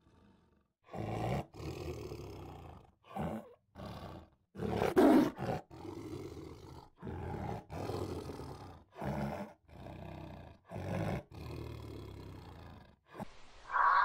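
Tiger roaring in a series of about a dozen short calls with brief pauses between them, the loudest about five seconds in.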